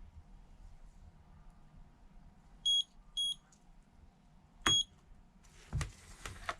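Three short, high electronic beeps from a handheld screen-data programmer as its buttons are pressed. Two beeps come close together and a third follows about a second and a half later with a sharp click, and a few light clicks come near the end.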